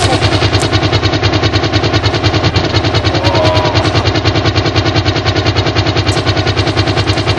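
Helicopter rotor and engine running, a loud, rapid and even pulsing chop.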